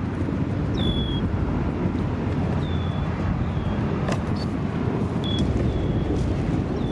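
Steady low rumble of wind on the microphone, with five or six short, high, slightly falling chirps scattered through it.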